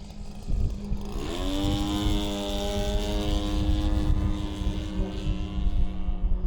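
Large RC model airplane's G26 gas engine driving an 18x8 propeller, throttling up abruptly about a second in with a quick rise in pitch, then holding steady at high revs. The throttle jumps from idle to high power with little in between because its linkage gives only about a quarter of the stick's travel.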